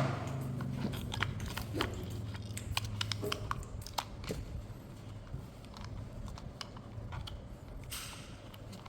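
Hands handling plastic toy parts and packaging: scattered light clicks and crinkles, with a low hum in the first few seconds and a brief rustle near the end.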